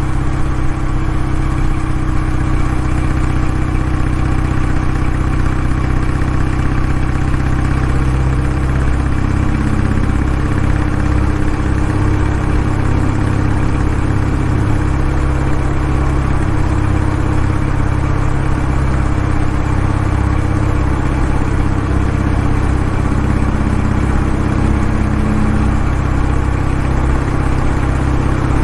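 Kawasaki W650's air-cooled parallel-twin engine running steadily, its exhaust note loud and even, with only slight wavers in pitch.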